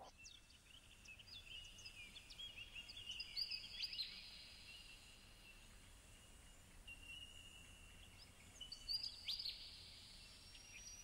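Faint birdsong: several birds calling with short whistled and chirping notes, busiest about three to four seconds in and again near the end.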